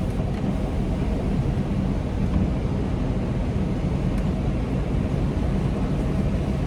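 Semi truck's diesel engine running steadily at low revs with a deep rumble as the rig reverses slowly.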